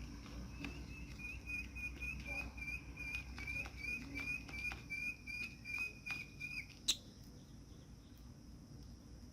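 Budgerigar giving a long, even run of short high chirps, about four a second, with light clicks among them. A single sharp click comes near the end of the run.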